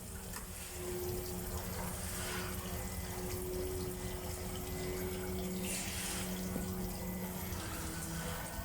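Yamaha F100AET four-cylinder four-stroke outboard motor idling steadily, with water splashing and gurgling around it.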